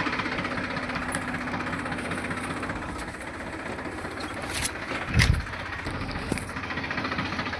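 Deutz-Fahr tractor's diesel engine running steadily while driving, with one low thump about five seconds in.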